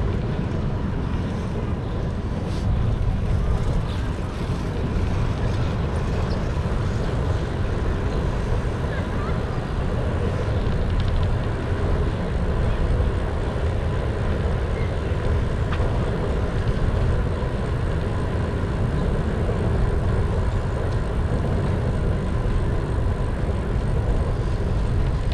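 Steady rumbling noise of a bike ride through city streets: wind and road vibration on the bicycle camera's microphone, mixed with passing traffic.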